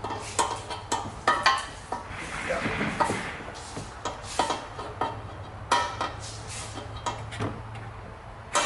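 Irregular metallic clinks and clanks of an Invidia exhaust section being handled and pushed into place, with a short scraping rasp around two to three seconds in.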